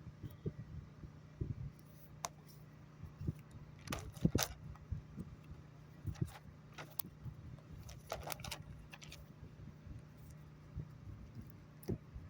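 Scattered light clicks and small rattles, most dense about four seconds in and again about eight seconds in, over a steady low hum.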